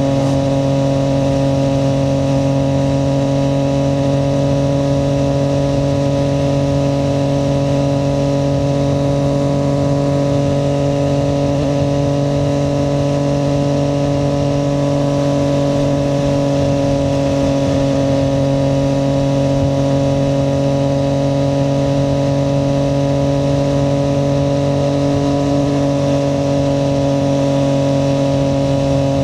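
Triumph Street Triple 765 RS inline-three engine running at steady revs for the whole stretch, its pitch holding nearly level, with a steady rush of road and wind noise underneath.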